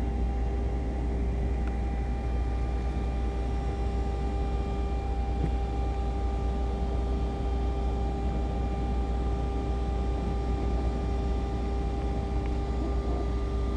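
Steady mechanical hum with a deep rumble and a few constant tones, unchanging throughout.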